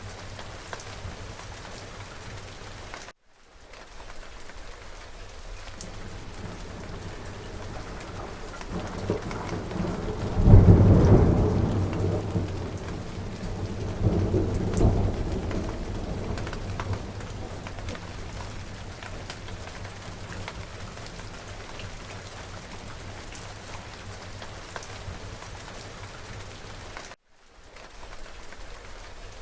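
Steady rain falling, with a thunderclap about ten seconds in whose low rumble swells again a few seconds later and dies away. The whole sound cuts out for a split second twice, early and near the end.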